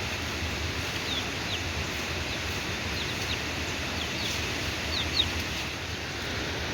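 Steady hiss of heavy rain, with short, high, falling bird chirps about once a second.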